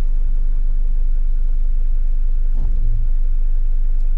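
Steady low engine and road drone of a camping car, heard from inside the cab while it creeps along in traffic. A brief short knock-like sound comes about two and a half seconds in.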